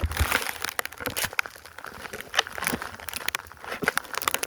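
Deep snow crunching and scraping close to the microphone in quick, irregular strokes as it is dug and burrowed into by hand.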